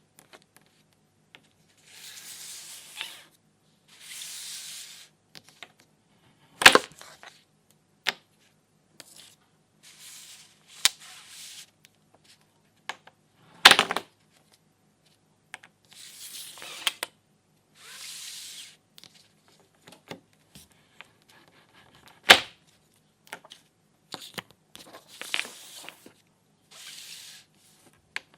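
Toy velcro fruit and vegetables being cut apart: repeated short ripping rasps as the velcro halves pull apart, with a loud sharp click about every seven seconds, as of a plastic toy knife striking the board.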